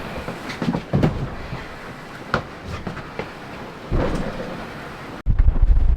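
An IMOCA 60 racing yacht under sail: irregular thuds and knocks from the hull and gear over a rumble of water and motion. Just after five seconds the sound cuts abruptly to heavy wind buffeting the microphone.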